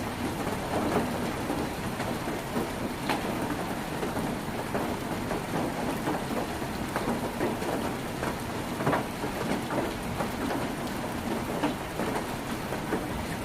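Heavy rain drumming on a tin roof, a dense steady patter with scattered louder drips and drop strikes.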